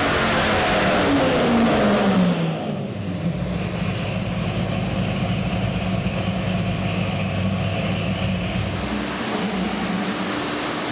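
383 cubic-inch stroker small-block Chevrolet V8 running on an engine dyno, coming back down off a pull: the revs fall over about two seconds, then it settles to a steady idle.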